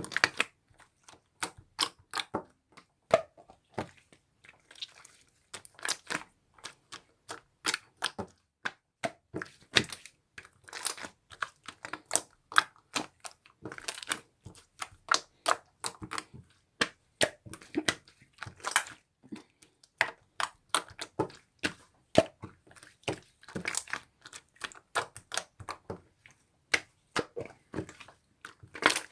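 Slime being handled and squished, giving a steady run of quick, irregular crackling pops and clicks.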